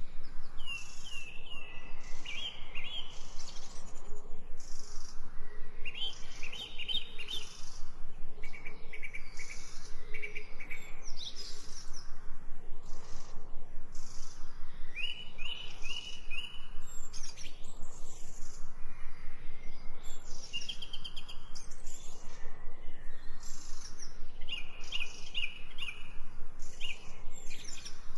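Birds chirping, with quick runs of short high notes repeated every few seconds over a steady background of natural ambience.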